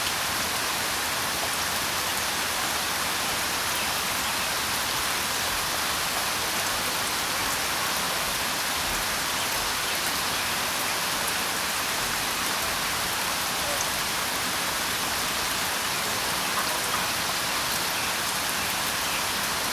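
Steady rain falling, an even hiss of drops with a few faint separate drop ticks.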